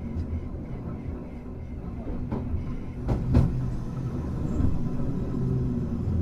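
Hankai Tramway car 351 running, heard from inside the car: a steady low rumble of motors and wheels on rail. A few sharp knocks from the wheels over the track come near the middle.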